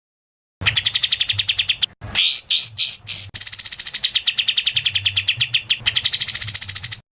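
Songbird trilling in fast rapid-fire bursts, about ten or more sharp high notes a second, with a few rising sweeps. It is an edited bird-song recording: it starts abruptly after a silent gap about half a second in and breaks off briefly around two and three seconds.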